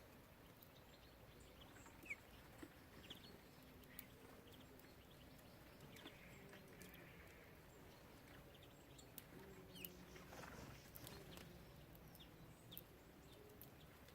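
Faint calls of small songbirds at a bird feeder: scattered short chirps and a few sharp clicks.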